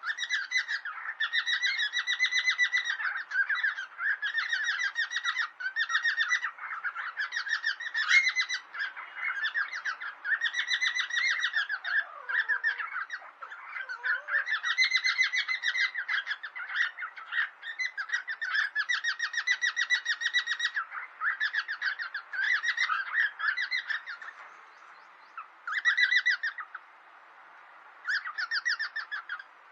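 Cockatiels chattering in fast runs of rapid chirps, phrase after phrase with short breaks, and one lower falling call about halfway through.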